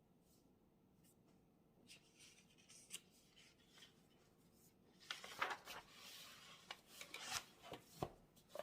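Faint desk sounds of studying: light scratching strokes on paper, then from about halfway a denser, louder stretch of rubbing and scraping against paper.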